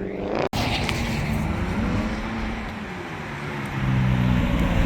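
Car engine running, with a brief dropout about half a second in. It gets louder and rises in pitch near the end as the car revs or accelerates.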